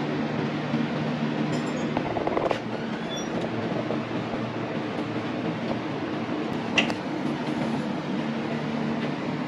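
A machine running steadily with an even low hum, with a brief rattle about two seconds in and a sharp knock near seven seconds.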